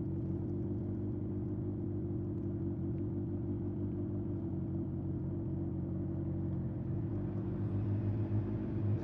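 Honda CB750F's air-cooled inline-four engine running steadily on the move through a vintage Yoshimura exhaust, getting louder near the end.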